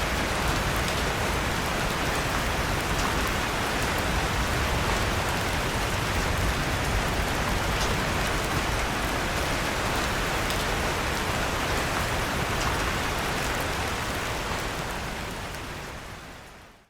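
Steady rain falling, with a few sharp crackles of a wood fire in a fireplace now and then. The sound fades out over the last few seconds.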